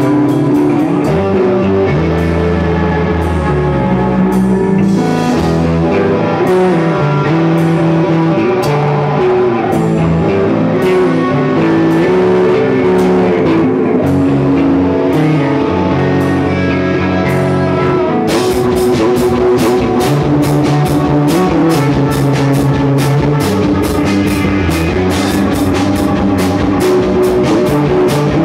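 Rock music with guitar, bass and drum kit playing steadily. About two-thirds of the way through, the drums pick up with a steady beat of bright cymbal hits.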